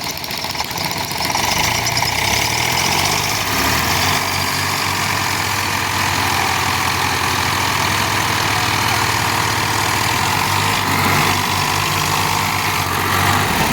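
Tractor diesel engine running; its revs rise between about one and three seconds in and then hold steady.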